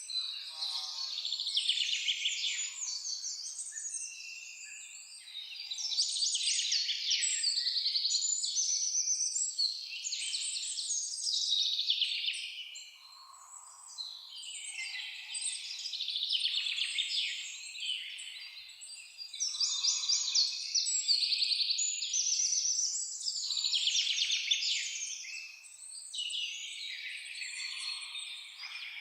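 Several songbirds singing in overlapping phrases of rapid chirps and trills, each phrase lasting a few seconds with brief lulls between them. Now and then a short, lower single note comes from another bird.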